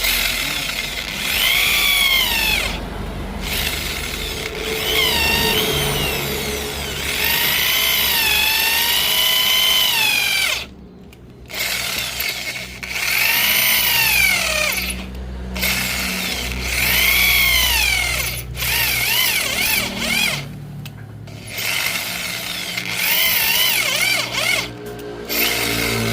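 Electric hand drill boring out a rusted, snapped exhaust stud in a motorcycle cylinder head. Its whine rises and falls in pitch as the bit loads and frees, and it stops briefly several times.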